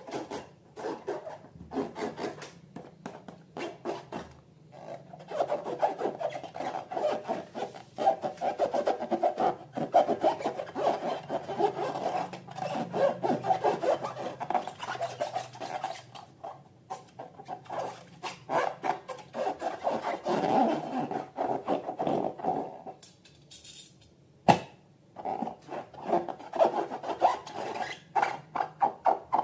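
Fast, repeated rubbing strokes, with a few short pauses and one sharp click about 24 seconds in.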